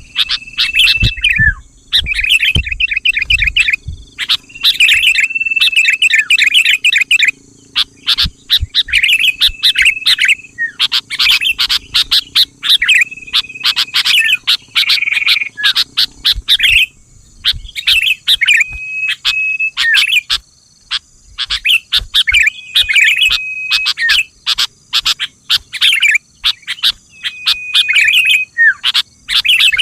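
Sooty-headed bulbul (kutilang) singing: bubbly, chattering phrases repeated every two to three seconds, most with a short held whistled note in the middle.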